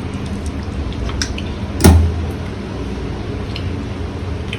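A metal ladle working in a cooking pot of curry: faint clicks and one solid knock about two seconds in, over a steady low rumble.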